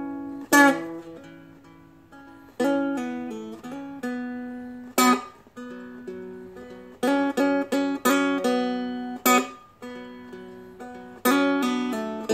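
Seagull Merlin, a small diatonic strumstick-style instrument, played solo: a slow line of notes and chords picked on the low and middle strings only, each ringing out and fading, with a few brighter strummed chords about half a second, five seconds and nine seconds in.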